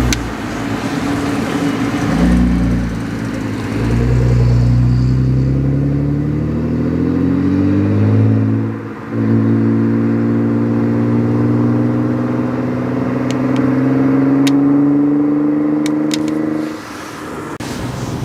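A performance car's engine accelerating hard on a sprint course. It climbs steadily in pitch, breaks off briefly about nine seconds in for a gear change, then climbs again for several seconds before dropping away suddenly near the end.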